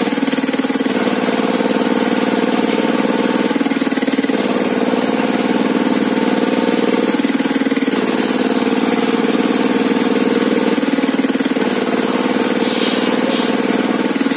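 Sawmill machinery running steadily, its pitch shifting slightly every few seconds.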